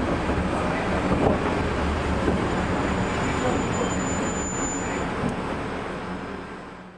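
Running noise aboard an ex-JNR 101 series electric motor car (Chichibu Railway 1000 series): traction motor and wheels on rail, a steady low hum under dense rumbling noise. A thin high whine comes in for a couple of seconds in the middle, and the sound fades out near the end.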